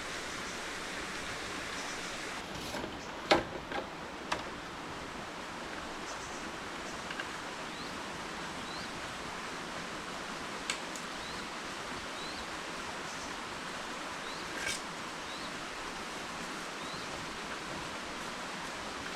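Steady rainforest background hiss with a few sharp knocks, the loudest about three seconds in and others around four, eleven and fifteen seconds. Short, high, rising chirps of a bird repeat every second or so through the middle.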